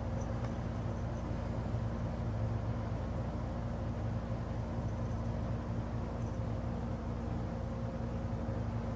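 A steady low hum with an even background hiss that stays level throughout, like a running machine or an electrical drone.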